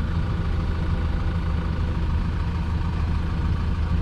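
Yale 175 forklift's diesel engine running steadily at a constant speed, a low even hum with no revving.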